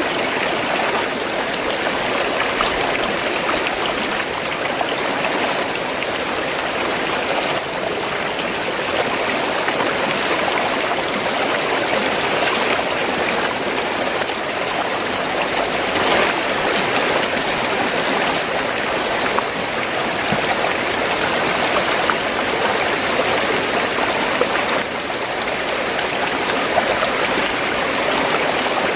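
Fast-flowing stream water, rushing and gurgling steadily.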